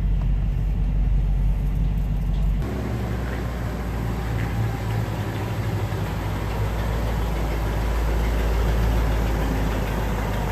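1959 Cadillac DeVille's 6.4-litre V8 running with a steady low rumble. About two and a half seconds in the sound changes abruptly to a denser, steadier engine noise.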